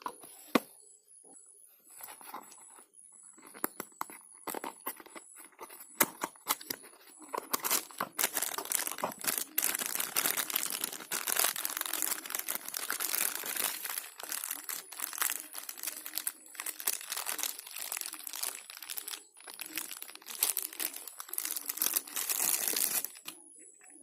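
Scattered clicks, then dense scratchy rubbing and crinkling that runs for about fifteen seconds and stops suddenly near the end.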